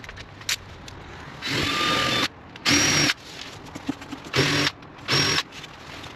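Power drill run in four short bursts, the first the longest, each with a steady motor whine, as it drills or drives screws into the timber seat frame. Small knocks and clicks between the bursts.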